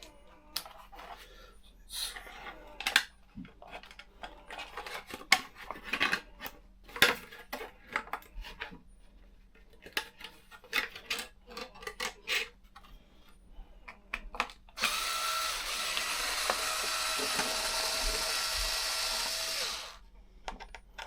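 Irregular clicks and taps of small parts and screws being handled, then a small cordless power driver whirring steadily for about five seconds, from about 15 s in, as it works a body-mount screw.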